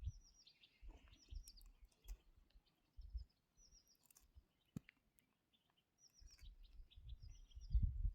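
A small bird singing short high phrases of quick falling notes, repeated several times, over scattered low thuds and a low rumble that builds near the end.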